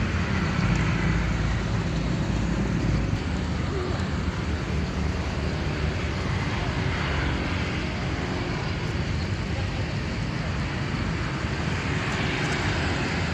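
Steady road traffic ambience with a continuous low rumble of passing vehicles.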